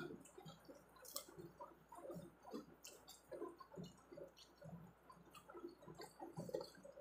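Faint chewing and small mouth clicks, then sips from a mug in the second half.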